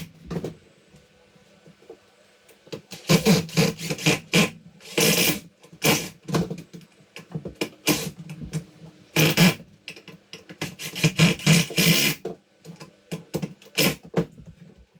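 Wooden boards of a door extension frame being handled and worked into a tight opening: a run of irregular knocks, thumps and scrapes, starting about three seconds in and going on for about ten seconds.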